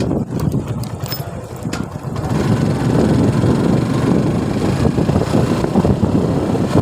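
Suzuki Gixxer motorcycle running on the road, with engine and wind noise on the microphone. Quieter with a few clicks for about the first two seconds, then louder as the ride picks up.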